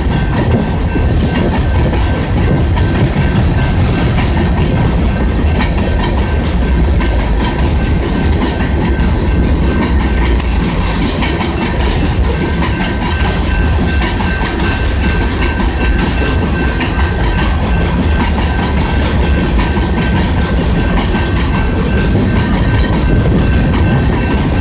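Coal cars of a Union Pacific freight train rolling past: a steady, loud rumble of steel wheels on the rails, with a thin steady high tone over it.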